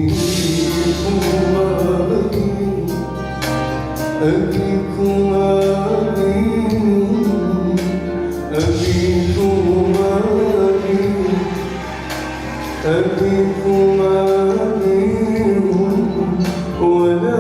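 Live music: a male singer holding long, wavering notes over instrumental accompaniment, with a few percussive strokes near the start.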